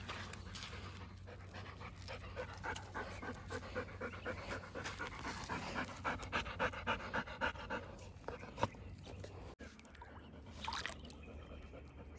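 A dog panting hard in quick, even breaths, easing off after about eight seconds.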